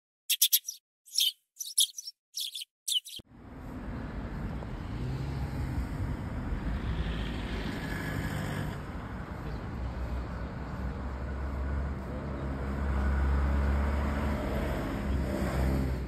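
A quick series of about six sharp bird chirps against silence. Then steady outdoor ambience takes over, with the low rumble of road traffic that swells as a vehicle passes near the end.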